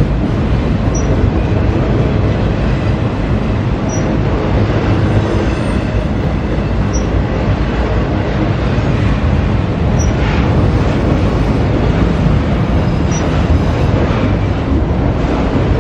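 CSX freight train cars rolling past steadily on the rails, with a faint high tick about every three seconds.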